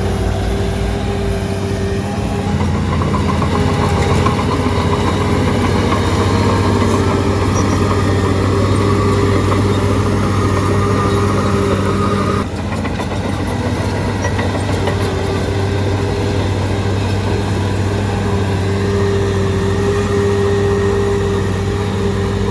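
Shantui DH17C3 bulldozer's diesel engine running steadily under work, with a sudden brief drop and change in its sound about twelve seconds in.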